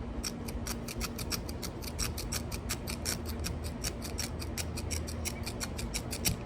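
Scissors snipping over and over at a single strand of Dyneema rope, a quick run of sharp clicks about five a second.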